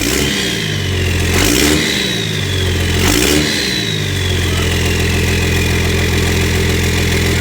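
Dodge Ram's turbocharged engine revved twice in quick blips, each followed by a high turbo whistle that winds slowly down, then settling into a steady idle.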